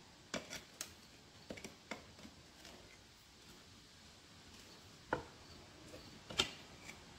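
Scattered light metal clicks and knocks of a pry bar working the ring off a steel split-rim truck wheel: a cluster of taps in the first two seconds, then two single, sharper knocks near the end.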